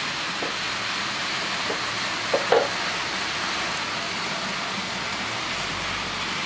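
Model trains running on a layout: a steady rushing noise, with a few light clicks and a louder double click about two and a half seconds in.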